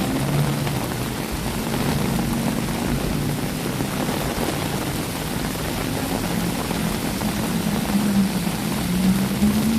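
Steady hiss of rain with street traffic, a vehicle engine's low drone wavering under it and rising slightly in pitch near the end.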